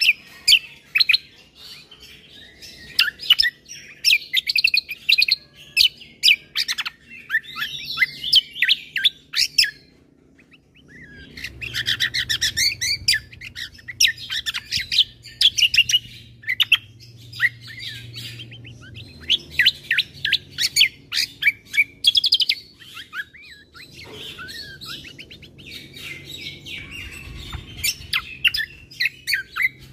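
Cucak kombo (kecial kombo) songbird singing a fast, varied song of high chirps and trills, with a short pause about ten seconds in.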